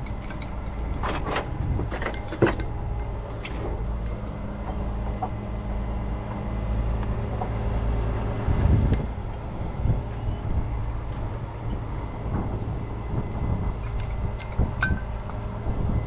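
Heavy truck diesel engine running steadily, its pitch shifting about halfway through, with a few sharp metallic clanks and knocks near the start and near the end.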